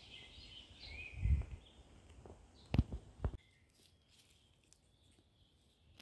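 Small forest birds chirping for the first second and a half, with a few low thumps, the loudest sounds here, about a second in and near the middle, then quiet.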